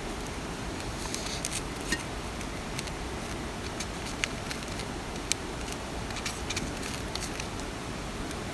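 Steady rain hiss with irregular sharp taps of single drops.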